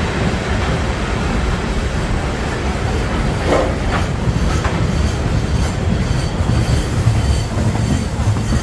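Long cement freight train rolling slowly past: a steady rumble of wagon wheels on the rails, with a few sharp clacks about halfway through.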